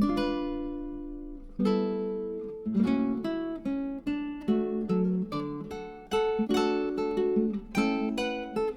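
Background music: acoustic guitar strummed and picked, chords ringing out and fading between strokes.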